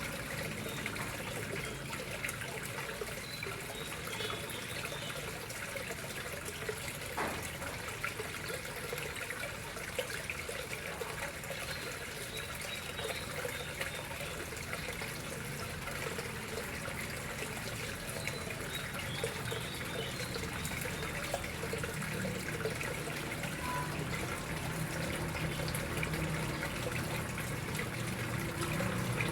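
Water flowing steadily into a koi pond, an even trickling and splashing.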